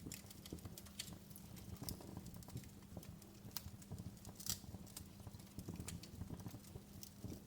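Wood fire crackling in a fireplace: a soft low rumble of burning with irregular sharp pops and snaps, one louder pop about four and a half seconds in.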